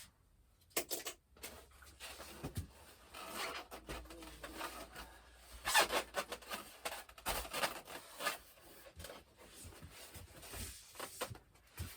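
Rustling, rubbing and light clicks of a foam model airplane's parts and their plastic packaging being handled, with the loudest scraping rustles about six and seven and a half seconds in.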